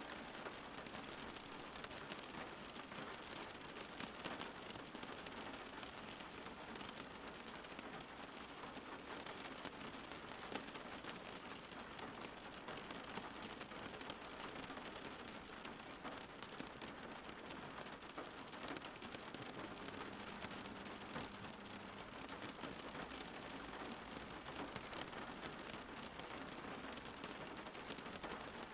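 Steady rain falling and pattering on surfaces, an even hiss of many drops with no break.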